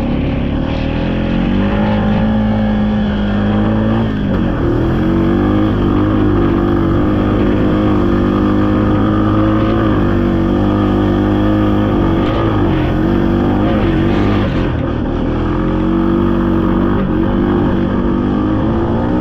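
2020 Honda Rubicon ATV's single-cylinder engine running steadily under throttle, its pitch dipping briefly about four seconds in and again near fifteen seconds before picking back up.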